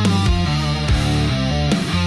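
Heavy rock music: distorted electric guitar holding sustained chords, with drum hits a few times.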